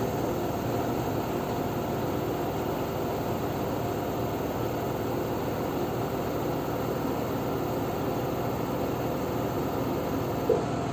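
LG F10B9LD front-loading washing machine in its spin cycle, drum spinning at speed with a steady whirring hum. One short knock about ten and a half seconds in.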